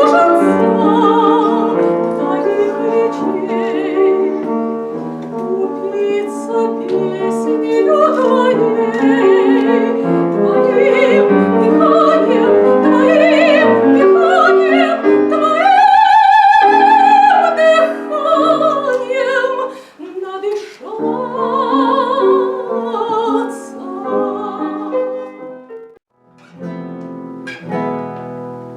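Classical operatic-style solo singing with vibrato, accompanied by piano. A long held high note comes past the middle, and the music grows quieter near the end.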